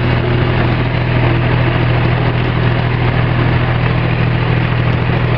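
Tractor engine running steadily, a loud, even drone with a deep hum underneath.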